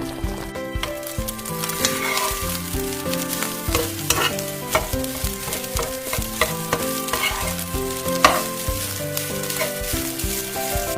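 Sizzling and stirring, as of food frying in a pan, with scattered clicks, over background music with a melody and bass line.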